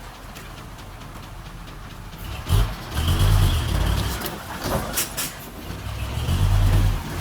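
Diesel engine of heavy earthmoving machinery working. It surges louder twice, first about two and a half seconds in and again near the end, with a few sharp metallic clanks in between.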